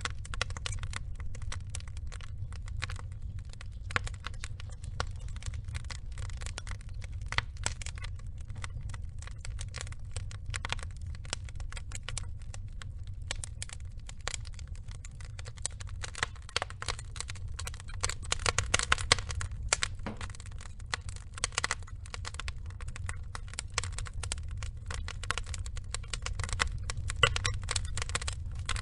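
Burning logs crackling and popping steadily over a low rumble of the fire. A thicker run of louder pops comes a little past halfway and again near the end.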